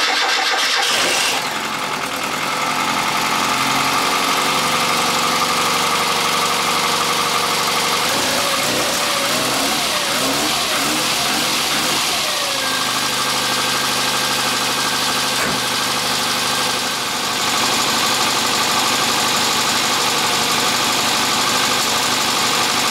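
Austin Metro's four-cylinder engine idling steadily just after starting, turning a newly fitted alternator and drive belt.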